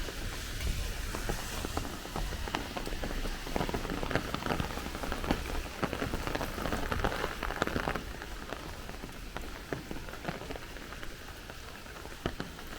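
Heavy rain falling steadily, with many individual drops pattering close by; it eases slightly after about eight seconds.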